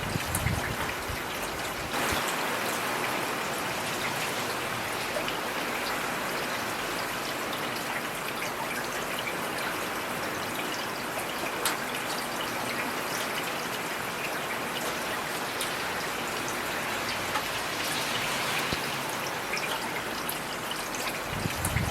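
Heavy rain falling steadily, an even hiss with the sharp ticks of single drops striking a surface here and there.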